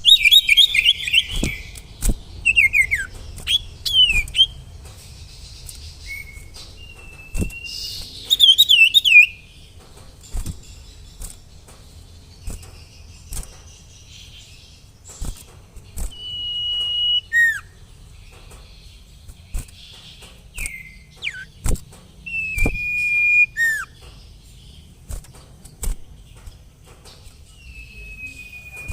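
Common iora (sirtu) singing: quick falling trilled phrases in the first few seconds, then several long drawn-out whistles, some ending in a sharp downward slur. Scattered sharp clicks.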